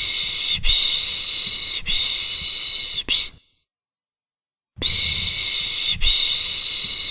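A person shushing a baby to soothe it: long 'shhh' hisses of about a second and a quarter each, three in a row with brief breaks, then a short one, a pause of about a second and a half, and the same run again about five seconds in.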